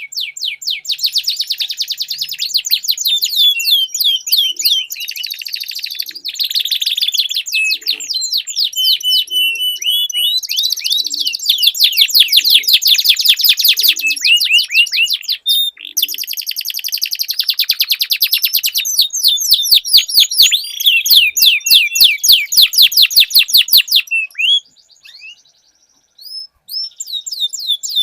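Domestic canary singing long rolling trills of rapid repeated notes, phrase after phrase, with a brief near pause about twenty-five seconds in before the song resumes.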